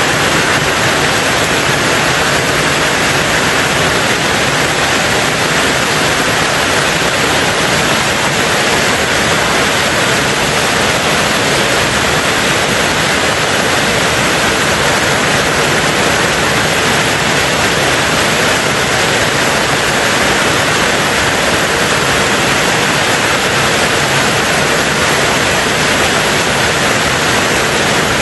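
Rain on a tin roof, falling steadily and evenly throughout.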